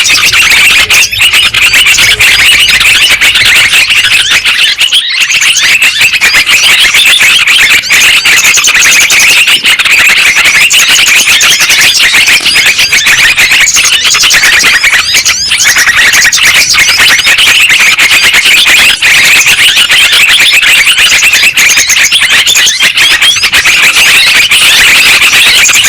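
Bird-lure recording of yellow-vented bulbuls (trucukan) calling: loud, dense, unbroken chattering calls, many overlapping, with no pauses.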